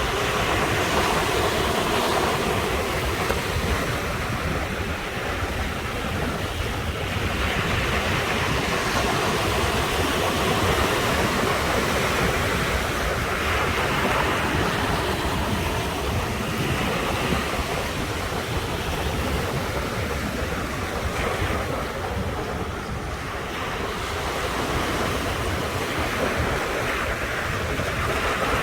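Ocean surf: waves washing in continuously, swelling and easing every few seconds.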